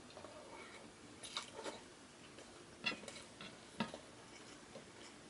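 Close-miked eating sounds: a person chewing a mouthful of braised beef and rice, with a few wet mouth clicks and smacks, the sharpest about a second and a half, three and four seconds in.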